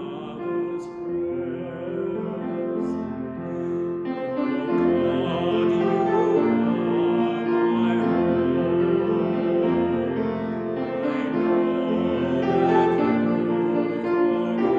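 Slow church music on a keyboard instrument, with long held chords that change every second or so.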